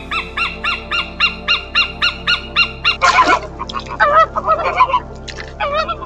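Bird calls: a fast, even series of short piercing notes, about four a second, for about three seconds, then louder, irregular honking calls that waver in pitch.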